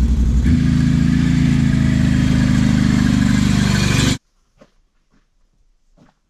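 Small vehicle engine running under way while towing a trailer, its pitch stepping up about half a second in. It stops abruptly after about four seconds, leaving only a few faint knocks.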